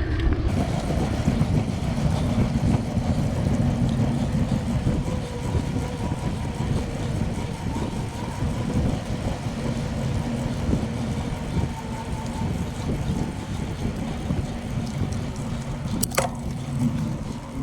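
Steady low rumble of wind on the microphone and tyre noise from a bicycle rolling along a road, with a faint steady hum underneath. A single sharp click comes near the end.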